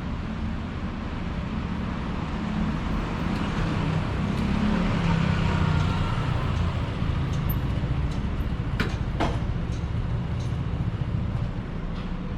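Street traffic: a motor vehicle passes, its low engine rumble swelling about halfway through and easing off, with a faint falling whine as it goes by. Two sharp clicks come close together a little after two-thirds of the way through.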